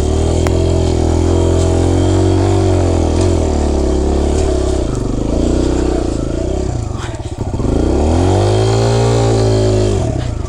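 Four-stroke dirt bike engine revving up and down on a trail, its pitch rising and falling repeatedly, with a brief drop about seven seconds in before it climbs again.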